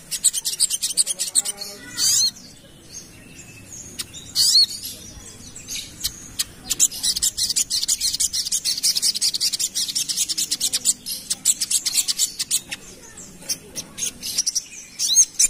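Little spiderhunter (sogok ontong) singing in long runs of fast, high chattering notes, broken by a few louder sliding chirps about two, four and a half and fifteen seconds in.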